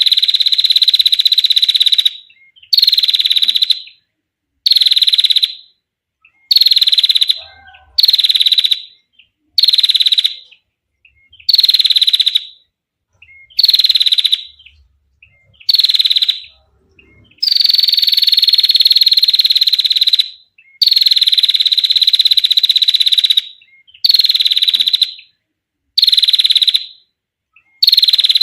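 Female prinia (prenjak) giving its long 'ngetir' call, a rapid buzzy trill. The bursts come over and over, about a second each and roughly every two seconds, with two longer trills just past the middle.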